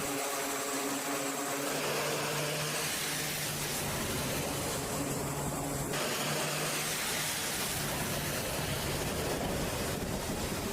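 Steady machinery noise with a constant low hum, and a few higher steady tones over it in the first two seconds.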